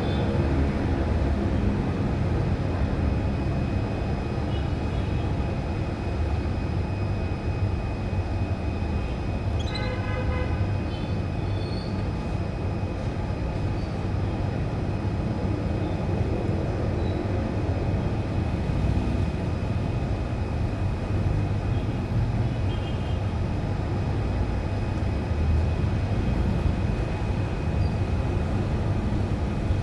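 Steady low rumble under a thin, constant high whine, with a few brief, faint canary chirps, clearest about ten seconds in.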